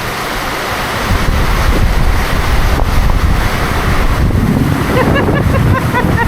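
Heavy rain pouring down in a storm, with wind buffeting the microphone. Faint voices come in near the end.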